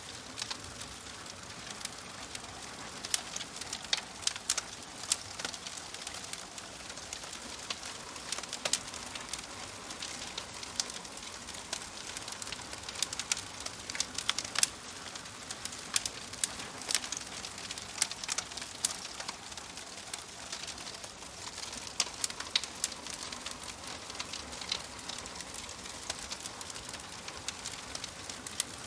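Wood fire crackling: a soft steady hiss with many irregular sharp pops and snaps.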